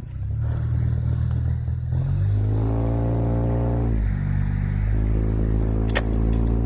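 Car engine running, heard from inside the cabin as a steady hum. Its pitch steps up about two seconds in and drops back about four seconds in, and a sharp click comes near the end.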